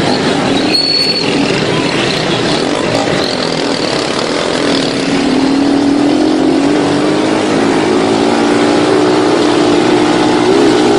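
Motor vehicle engine running under way, its pitch climbing gradually through the second half, over a steady rush of wind and road noise.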